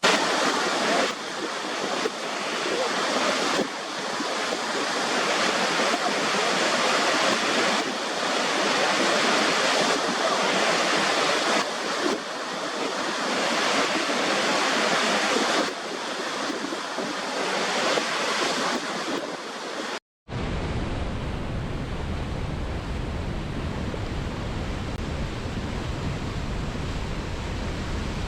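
Waterfall water rushing as a steady, dense hiss, with abrupt changes in texture as recordings are cut together. About 20 s in it drops out for an instant and gives way to a duller, deeper rush with more low rumble.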